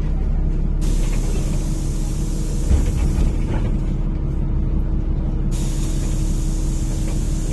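City bus engine idling with a steady low hum while the bus's pneumatic system lets out a long hiss of compressed air, starting about a second in and lasting about four seconds.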